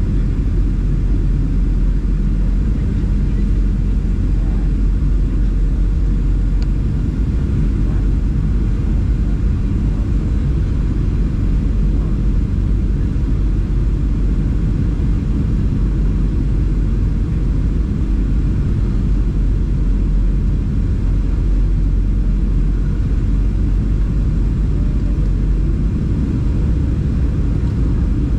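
Steady, even rumble of a Boeing 737-700 airliner heard from inside its cabin.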